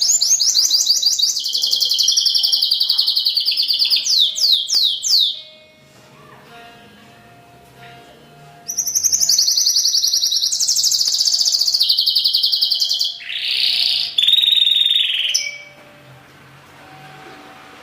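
Pintagol, a hooded siskin × canary hybrid, singing: two long bursts of rapid high trills and twittering, each several seconds long, with a pause of about three seconds between them.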